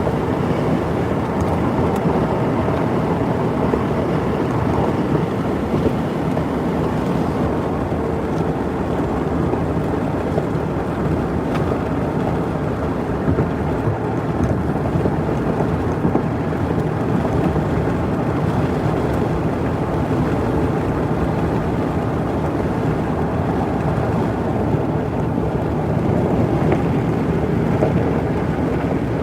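Steady road and wind noise inside a moving vehicle, an even low rumble with no breaks.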